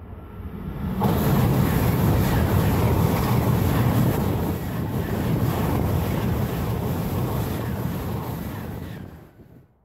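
ICE 3 high-speed train passing close at speed: a loud rush of wheel, rail and air noise with wind on the microphone. It builds, jumps up sharply about a second in, holds steady, then falls away shortly before the end.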